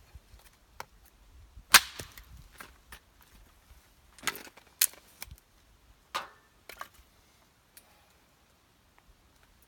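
Firewood being split by hand: a handful of sharp wooden cracks and knocks at irregular intervals, the loudest about two seconds in.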